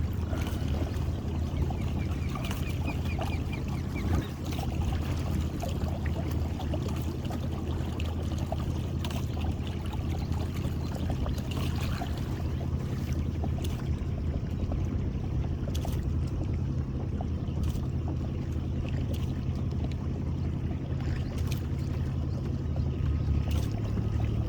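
Boat motor running steadily at low speed, a constant low hum, with water trickling and small scattered clicks and knocks.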